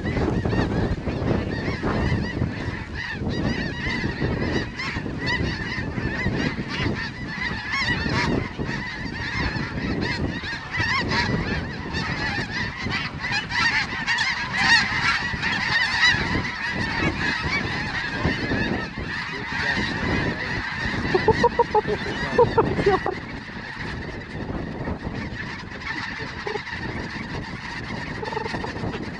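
Many snow geese calling at once, a dense, continuous chorus of overlapping high honks, with a few louder, closer calls about 21 seconds in.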